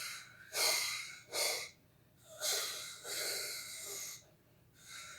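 A person imitating a steam train with their mouth: a series of breathy, hissing puffs, about five of them, unevenly spaced.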